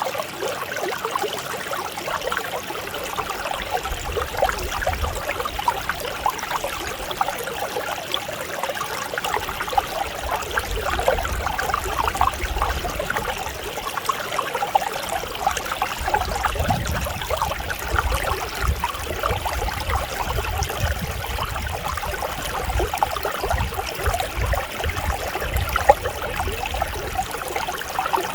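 Mountain stream flowing over rocks, a steady babbling and splashing of running water. A low rumble underneath comes and goes.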